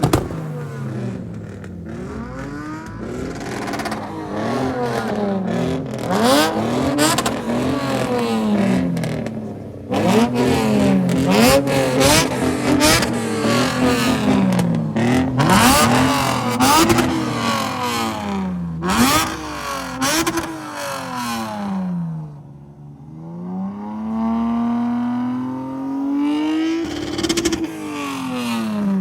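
A car at a Japanese-car meet is being revved hard and repeatedly through a loud exhaust, its pitch climbing and falling over and over. Sharp cracks run through the middle. Near the end one long rev climbs slowly and then drops.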